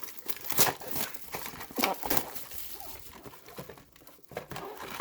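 Wrapping on a box of baseball cards being crinkled and torn open by hand, in irregular scratchy bursts.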